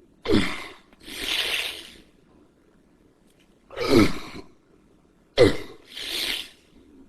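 A person's non-speech vocal sounds: three short cries that fall in pitch, the first and last each followed by a long breathy hiss.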